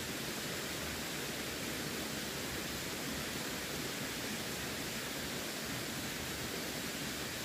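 Running water rushing steadily, an even unbroken hiss with no distinct splashes or changes.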